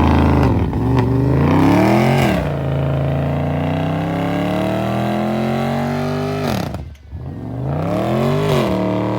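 Dodge Challenger's engine revving loud: two quick blips, then held high and slowly climbing for about four seconds before it drops off, then revved up again twice near the end.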